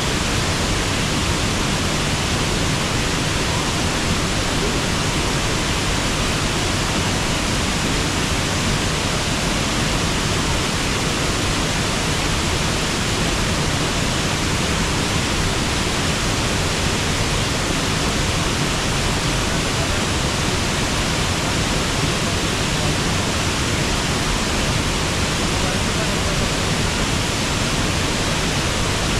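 A small river waterfall rushing steadily, an even roar of falling water with no breaks or changes.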